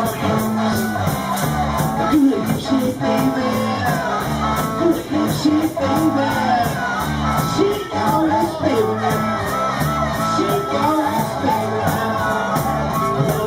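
Live band playing a blues-rock number, the drums keeping a steady beat under repeating bass notes, with a wavering lead line over them.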